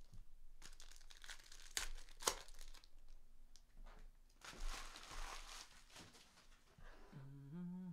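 Trading-card pack wrappers being torn open and crinkled, with sharp snaps and rustling as the cards are handled.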